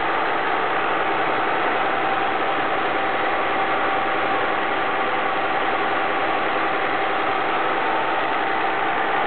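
Oettinger-tuned car engine idling steadily at an even speed, without revving.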